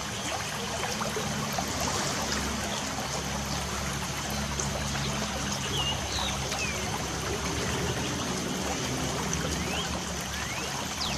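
Light rain falling as a steady, even hiss, with a few short bird chirps scattered through it, a couple in the middle and one or two near the end.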